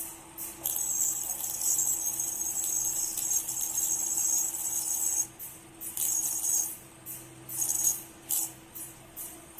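YJDH-1 ultrasonic spark repair welder depositing metal: the vibrating electrode makes a high, hissing crackle against the workpiece, unbroken for about four seconds and then in short spells. A steady low hum runs beneath it.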